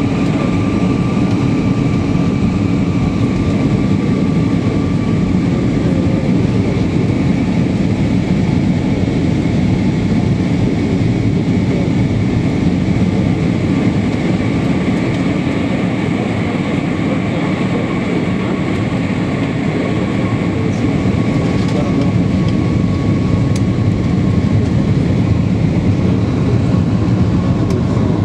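Steady drone inside an airliner cabin on approach: engine and airflow noise, with two faint high whining tones that drift slightly in pitch.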